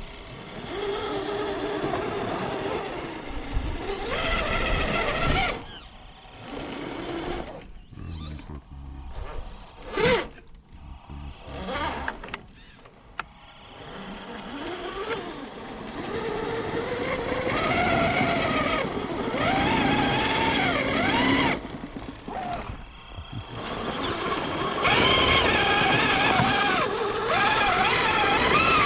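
Electric RC crawler trucks driving over rough ground, their motors and gearboxes whining in bursts, the pitch rising and falling with the throttle, with short lulls and a sharp knock about ten seconds in.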